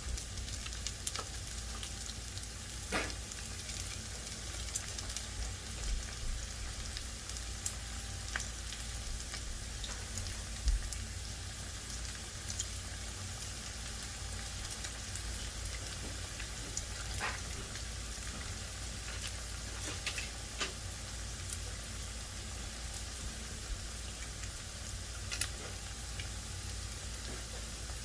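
Empanadas frying in hot oil: a steady sizzle with scattered sharp pops and crackles.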